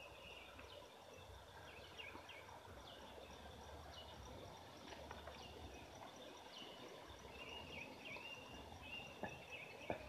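Faint bird calls: short high chirps and whistles every second or so, one held a little longer near the end, over a quiet background, with a couple of small clicks shortly before the end.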